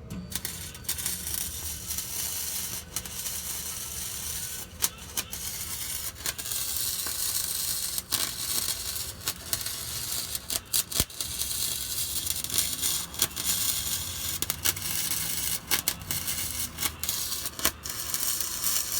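Flux-core wire-feed welder arc crackling and sputtering steadily while a bead is run on a glass-pack muffler, with many brief breaks in the arc.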